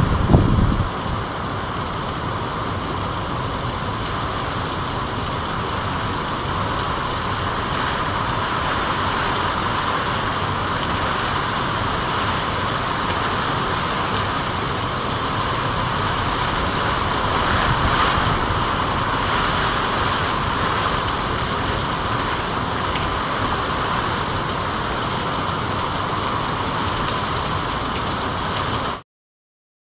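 Steady rainfall, an even hiss, with a brief low rumble right at the start. The sound cuts out to silence about a second before the end.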